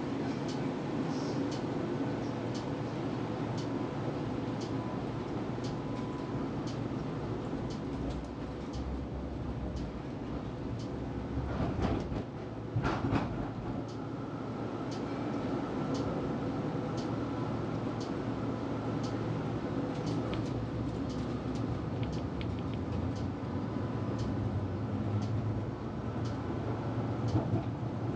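Tram running along its track, heard from inside the car: a steady rumble of wheels on rails with frequent light clicks, and a couple of louder knocks near the middle.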